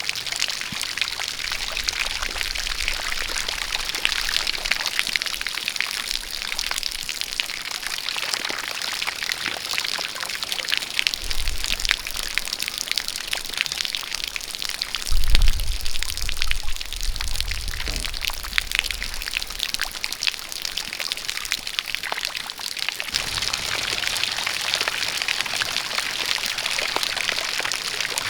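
Rain falling together with a jet of water pouring and splashing: a steady hiss full of fine drop patter. A few brief low rumbles come through, the strongest about halfway through.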